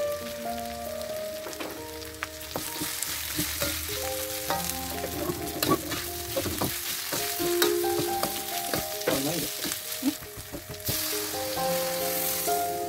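Yellow spice paste with sliced lemongrass sizzling as it fries in a wok, stirred with a metal spatula that scrapes and clicks against the pan. Near the end water is poured in and the sizzle briefly turns to a louder hiss.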